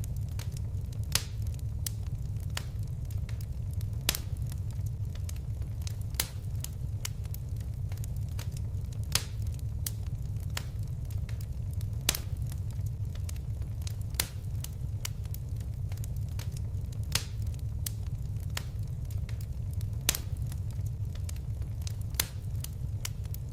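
Fireplace fire crackling: a steady low rumble of flames under frequent sharp pops and snaps, a handful of them louder than the rest.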